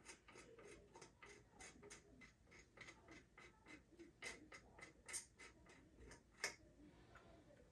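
Faint, quick, irregular clicks and scratches of glue being scraped off a freshly glued and clamped wooden axe handle, with a few louder ticks near the middle.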